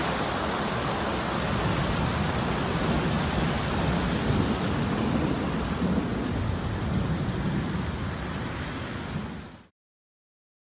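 Steady heavy rain with a low rumble of thunder that swells in the middle, fading out near the end.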